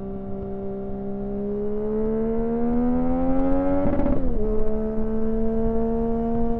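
Yamaha FZ-09's 847 cc inline-three engine and exhaust under way, the pitch climbing steadily as it accelerates. About four seconds in the pitch drops suddenly, as at an upshift, then holds steady.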